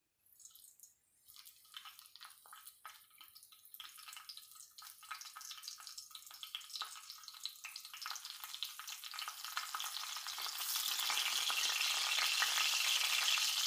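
Masala-stuffed green chilies frying in hot oil on a tawa. Scattered crackles build into a steady sizzle that grows louder as more chilies go into the oil, jumping up about ten seconds in.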